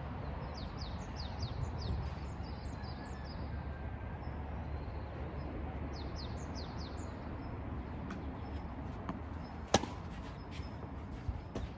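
Small birds chirping in quick runs of short falling notes over steady background noise, with one sharp crack of a tennis ball struck by a racket near the end.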